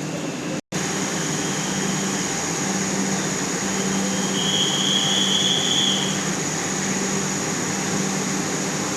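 Vande Bharat Express electric trainset running: a steady rumbling noise with a low hum and a thin high whine. The sound drops out for an instant less than a second in, and a faint higher tone rises over it for about two seconds in the middle.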